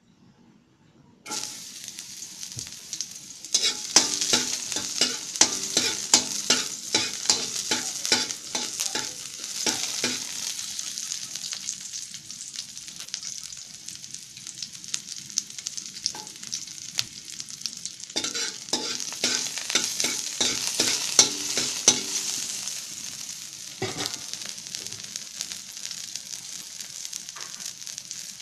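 Chopped onion and garlic sizzling in hot oil in a metal wok. The sizzle starts about a second in and runs steadily. Two spells of quick scraping and clacking from a spatula stirring against the wok come in the first half and again later on.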